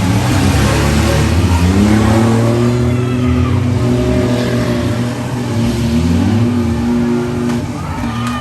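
Several demolition derby vans' and trucks' engines revving at once, their pitches rising and falling and overlapping.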